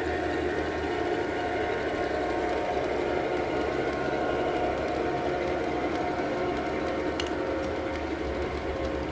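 Diesel freight train running past: a steady engine drone over the rolling of the cars, with two sharp clicks about seven seconds in.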